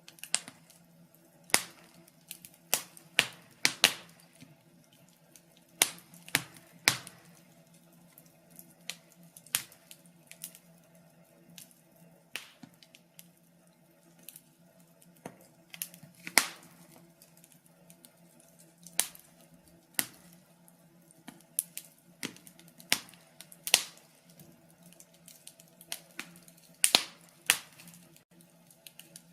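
Wood fire crackling: irregular sharp pops and snaps, about one a second and sometimes in quick clusters, over a faint steady low hum.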